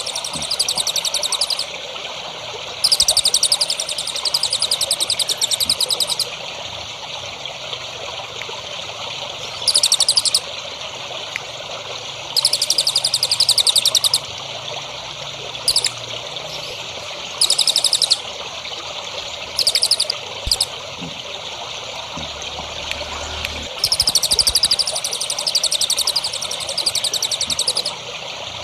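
A songbird singing rapid, high twittering trills in repeated bursts of about half a second to three seconds, over the steady trickle of running water.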